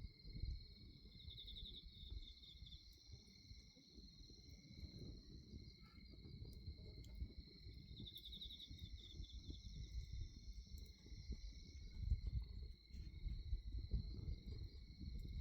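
Crickets chirping steadily in several high tones, one of them a pulsing trill that comes back about every six to seven seconds, over the low rumble of a bonfire burning, with a few faint crackles.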